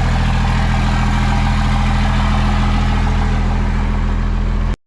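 Second-generation Dodge Ram's Cummins 5.9 inline-six diesel idling steadily, then cut off suddenly near the end.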